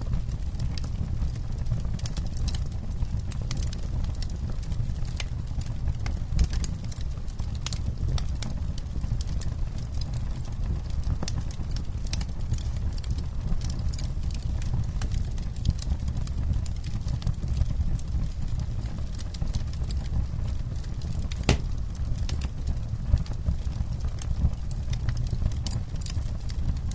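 Campfire crackling: frequent irregular pops and snaps of burning wood over a steady low rumble of the flames, with a few sharper pops standing out.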